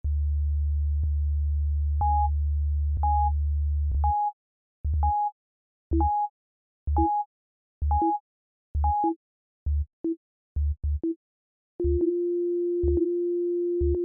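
Ableton Meld synth playing plain sine-tone notes that the Bouncy Notes device generates at random. A low tone is held for the first few seconds, then short beeps come about once a second at two or three pitches, and a middle-pitched tone is held near the end.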